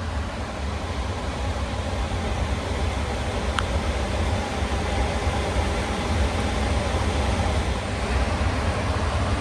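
A machine running: a steady low rumble with rushing noise, and one sharp click about three and a half seconds in.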